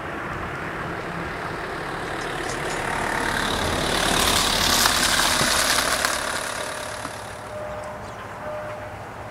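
Diesel multiple unit running past: its engine and wheel noise build up, are loudest about four to six seconds in, then fade away.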